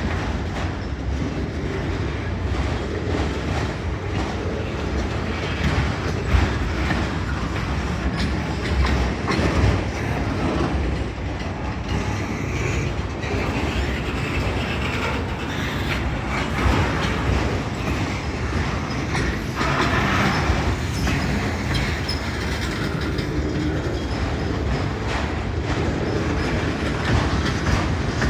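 Cars of a long CSX freight train rolling past, a steady, continuous noise of steel wheels running on the rails.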